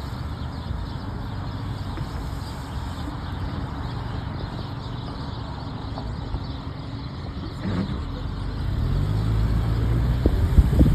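Car driving on a wet road: steady engine and road noise with tyre hiss, getting louder from about eight seconds in as the engine note comes up.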